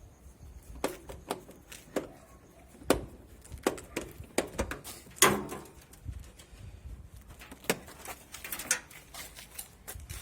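Scattered clicks and knocks of parts and tools being handled while a washing machine is put back together, with a louder knock about five seconds in.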